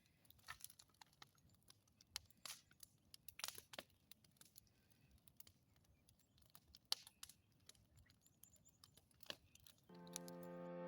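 Near silence with faint, scattered clicks and crackles. Soft music fades in near the end.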